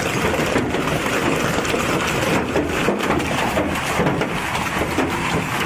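Storm wind and rain noise: a steady rushing with irregular crackles.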